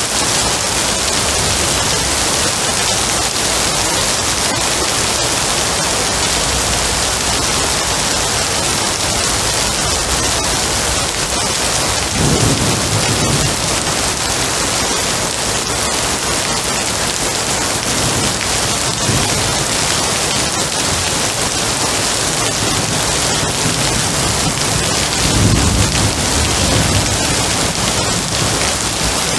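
Steady heavy rain hissing down, with rolls of thunder rumbling low about twelve seconds in and again near the end.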